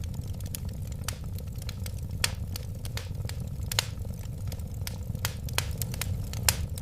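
Wood fire burning with a steady low rumble and irregular crackling, with a few louder pops, about two seconds in, near four seconds and near the end.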